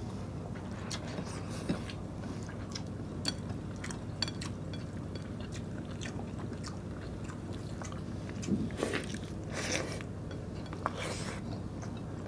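Close-up mouth sounds of people eating rice and canned tuna with their hands: chewing with small wet clicks and lip smacks. A louder burst of mouth sounds comes about nine seconds in.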